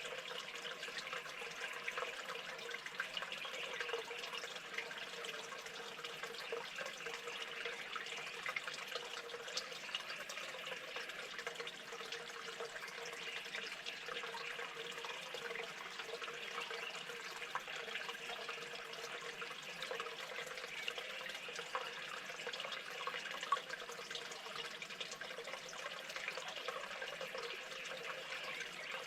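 Steady running water, an even trickling rush with many faint small clicks and drips mixed in.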